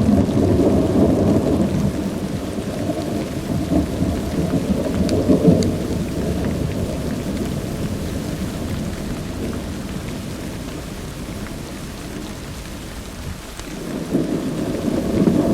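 Thunderstorm with steady rain: a long rolling thunder rumble that peaks about five seconds in and slowly fades, then a new roll of thunder swells near the end.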